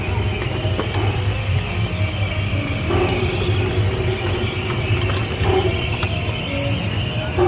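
A miniature railway train moving during switching: a steady low rumble with several sharp clanks and clicks.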